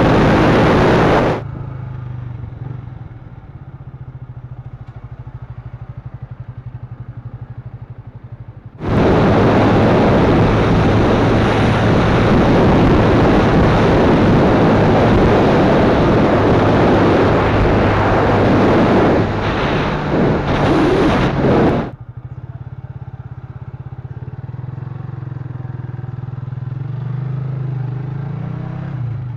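Yamaha FZ150i single-cylinder four-stroke engine running while riding, its low hum steady under the ride, with loud rushing wind over the camera microphone at speed for the first second and again for about thirteen seconds in the middle. Near the end, at lower speed, the engine note rises as the rider throttles up.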